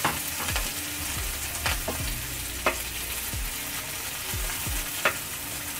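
Sliced onions and green chillies sizzling in hot soybean oil in a non-stick frying pan, with a steady hiss. A wooden spoon stirring them knocks and scrapes against the pan several times.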